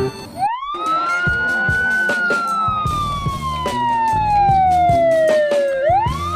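Police siren wailing: the pitch climbs quickly about half a second in, falls slowly for about five seconds, then climbs again near the end. Background music with a steady beat runs under it.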